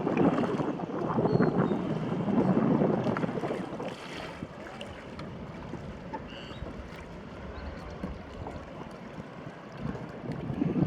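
Wind buffeting the microphone and water rushing along a small sailboat under way: louder gusts for the first few seconds, then a lower, steadier rush.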